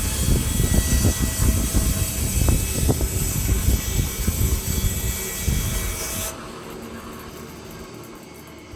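Woodlands Mills HM126 portable bandsaw mill running, its engine and band blade loud and steady. About six seconds in the high hiss cuts off suddenly and the sound drops to a much quieter level.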